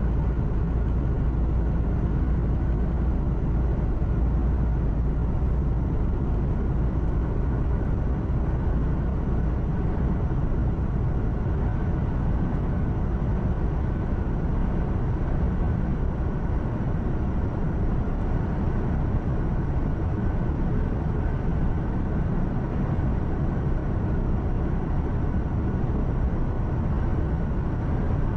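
Truck cab interior while driving: a steady low drone of the diesel engine mixed with tyre and road noise, unchanging throughout.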